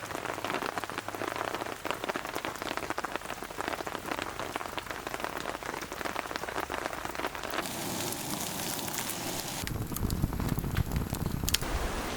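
Rain pattering on a surface, a dense, irregular spatter of drops. About two thirds of the way in, the sound changes abruptly to a steadier hiss and then to a low rumbling noise with a few sharp clicks.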